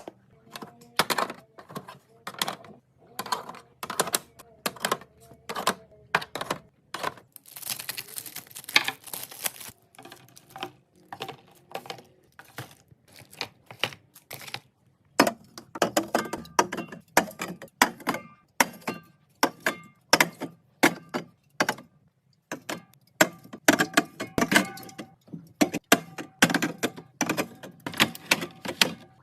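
Rapid, irregular clicks, taps and knocks of containers and bottles being set down and arranged on fridge shelves, with a brief hiss about eight seconds in.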